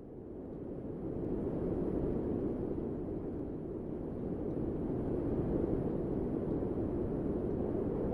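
Wind blowing: a steady low rushing that swells over the first couple of seconds, then holds.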